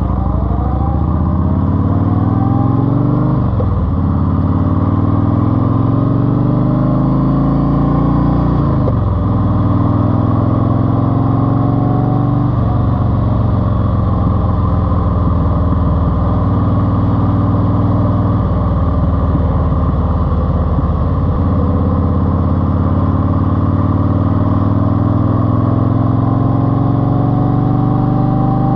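Car engine and baffled exhaust, 2.5-inch TAB exhaust with baffles, pulling through the gears. It rises in pitch under acceleration and drops at each shift, several times, then runs steadily at speed before climbing again near the end.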